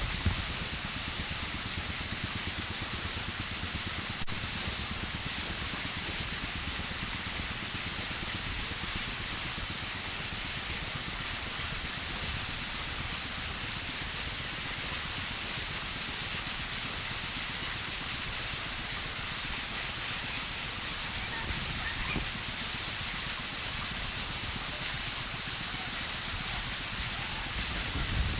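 Steady rush of falling water, an even hiss holding at one level throughout.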